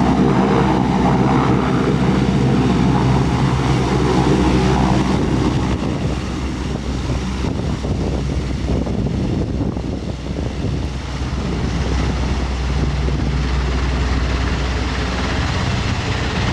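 Helicopter running, with a loud, steady turbine and rotor sound; the tone changes and eases slightly about five seconds in.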